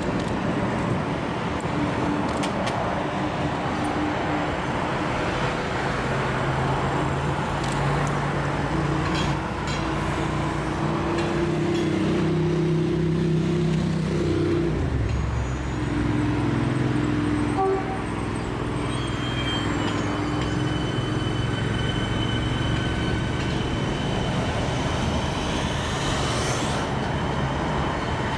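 Comeng and Siemens electric suburban trains rolling over a rail bridge: a continuous rumble of wheels on track with a low droning hum. A high steady whine joins about two-thirds of the way through, over road traffic noise below.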